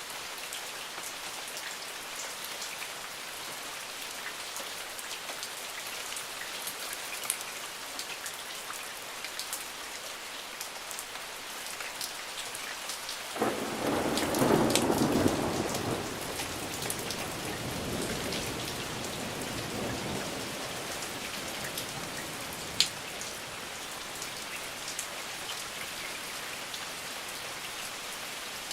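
Steady rain falling, with single drops ticking sharply now and then. About halfway through, a thunderclap breaks in suddenly and rumbles away over several seconds.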